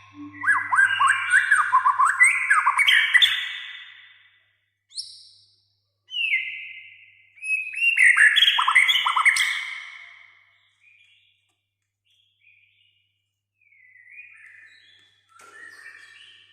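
White-rumped shama (murai batu) in full song: two loud runs of fast, varied whistles and chattering notes, each lasting about three to four seconds, then softer scattered phrases near the end.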